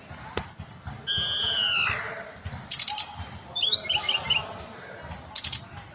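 Tledekan gunung songbird singing a varied phrase: sharp high chirps, a long falling whistle, then a quick run of short notes and more sharp calls.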